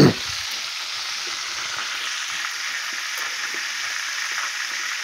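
Chicken drumsticks shallow-frying in hot oil in a skillet on the stovetop: a steady, even sizzle. A brief voice sound comes at the very start.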